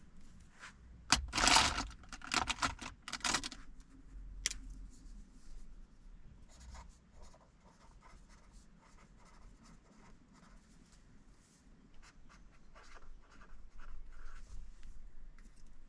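Pen writing on paper in a planner: a burst of louder scratching strokes about a second in, then quieter, scattered pen strokes.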